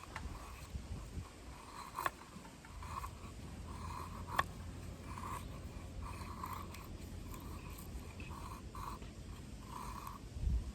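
A blade cutting wood in repeated short strokes, about one a second, with a couple of sharp clicks between them.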